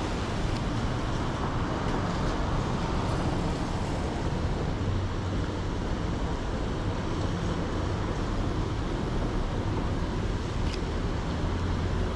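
Steady street ambience in heavy rain: traffic noise with the wash of falling rain, a constant low rumble under an even noise and no distinct events.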